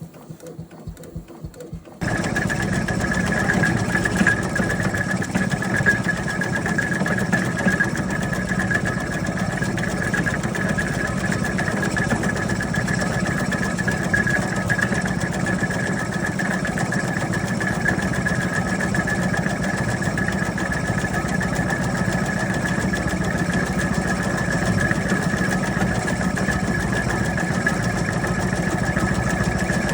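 Three-quarter-size Tasker steam tractor running along under steam: a steady mechanical running sound with a steady high whine, which comes in suddenly about two seconds in after faint rhythmic ticking.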